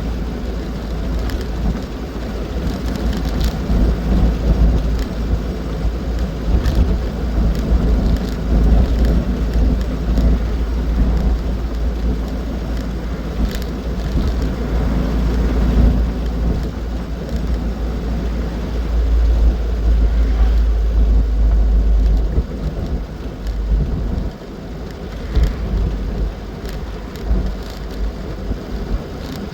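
Austin 7 being driven: its engine and road noise run continuously under heavy wind rumble on the microphone, with a brief lull about two-thirds of the way through.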